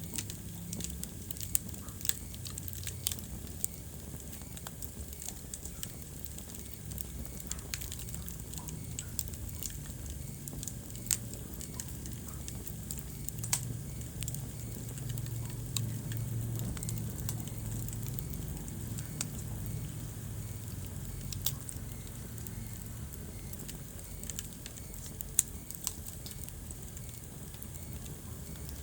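Wood fire burning in a fireplace, with sharp, irregular crackles and pops over a steady low rumble of the flames.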